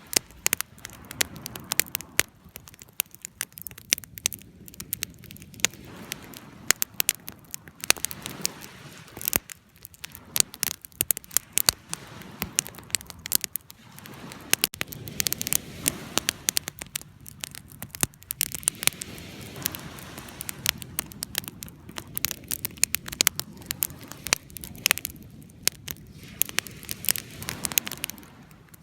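Wood fire crackling and popping: frequent sharp snaps over a soft low rush of flames.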